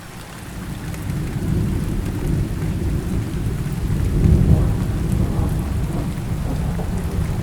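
Steady rain with a deep rolling rumble of thunder beneath it. The sound swells up over the first second or so and is loudest about halfway through.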